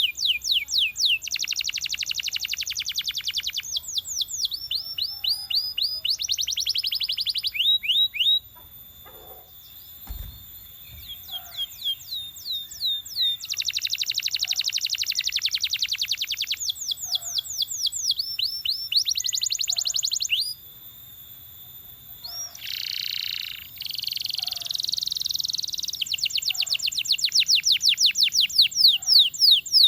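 Belgian canary singing: phrase after phrase of rapid trills, each a fast run of repeated high notes sweeping downward, changing from one trill type to the next. There are short breaks about eight seconds in and again about twenty-one seconds in.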